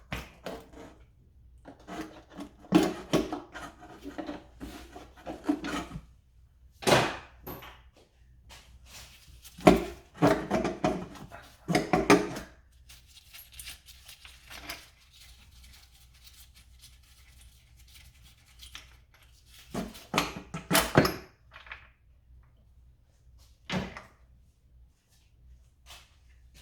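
Irregular clunks, knocks and rattles of hand tools and metal parts being handled as the rocker cover is worked off a Toyota 2AZ-FE engine. They come in several bursts with quiet pauses between.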